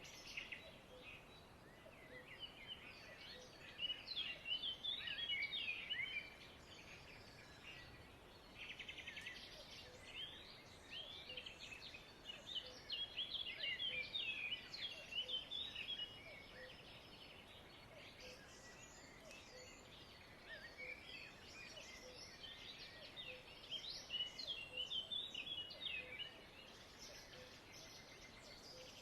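Many small birds chirping and twittering together, in busy bursts that rise and fall over a faint background hum.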